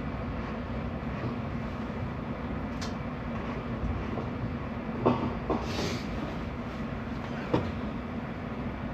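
A steady mechanical hum runs underneath a few sharp clicks and knocks, the sound of a threaded valve fitting being handled and worked back into its place.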